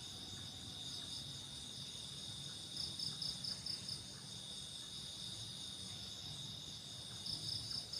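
Night insects chirping: a steady high-pitched drone, with a pulsing trill that comes in short bouts about three seconds in and again near the end.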